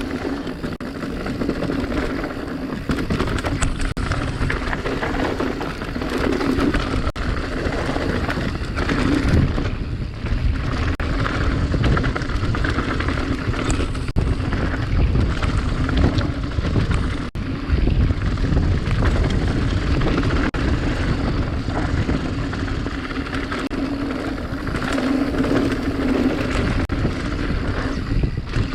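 A mountain bike riding down a dirt trail: wind buffets the action camera's microphone in a loud, steady rumble, with many small knocks and rattles from the bike over the bumps.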